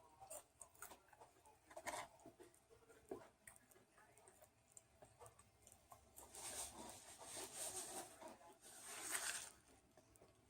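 Faint eating and food-handling sounds: a few soft clicks and taps, then two spells of rustling in the second half.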